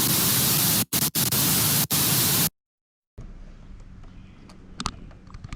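Loud burst of white-noise static lasting about three seconds, with a couple of split-second dropouts, that cuts off abruptly into a moment of dead silence; faint room sound with a few light clicks follows.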